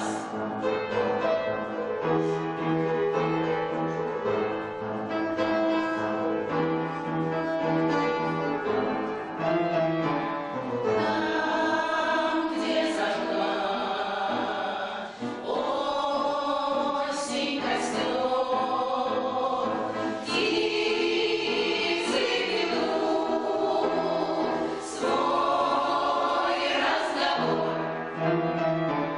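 An amateur veterans' choir singing a song to instrumental accompaniment, with the accompaniment more prominent in the first several seconds and the full choir coming in strongly about eleven seconds in.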